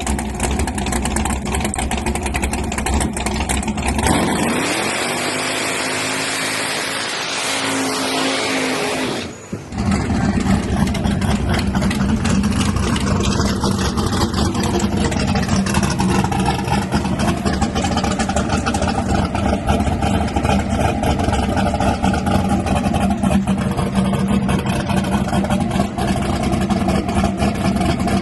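Loud drag race car engine running. About four seconds in, a strong hiss rises over a climbing engine note for several seconds, then breaks off abruptly, and the engine runs on steadily with a brief dip and recovery in pitch.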